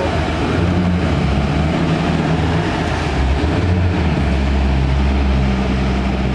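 Koenigsegg Agera RS's twin-turbocharged 5.0-litre V8 running at low revs as the car creeps forward at walking pace; the deep engine note shifts and then holds steady about four seconds in.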